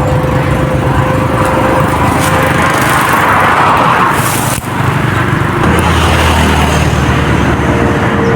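Engines running steadily, swelling and easing as they pass. A deeper engine hum comes in about six seconds in.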